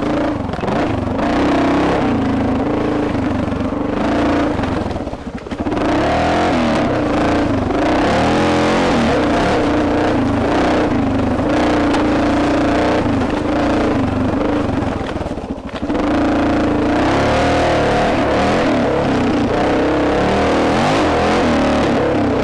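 Single-cylinder four-stroke dual-sport motorcycle engine running under throttle on a trail ride, heard close up from the rider's helmet, its pitch rising and falling with the throttle. It backs off briefly about five seconds in and again about fifteen seconds in, then pulls again.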